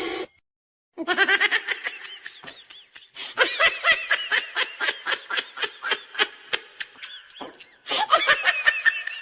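A person laughing hard in a long run of rapid, repeated bursts, pausing briefly near the end before another burst of laughter.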